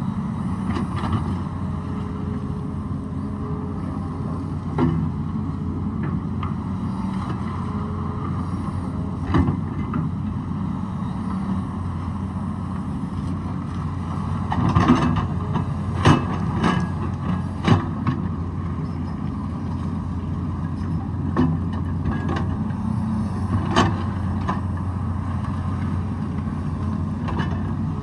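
Excavator's diesel engine running steadily while it digs rocky ground, with sharp clanks and knocks of the bucket against rock every few seconds, coming thickest about halfway through.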